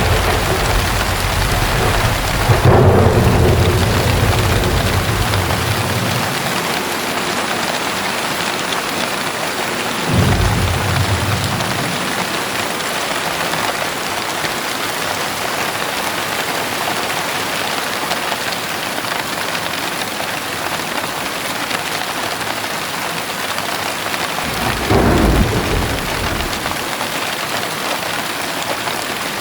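Heavy rain falling steadily, with low thunder rumbling in repeatedly: a fading rumble at the start, the loudest roll a few seconds in, another about a third of the way through, and one more near the end.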